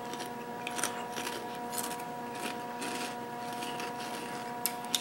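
Flamin' Hot Habanero Cheetos being chewed: irregular crisp crunches, with two sharper cracks near the end, over a steady low hum.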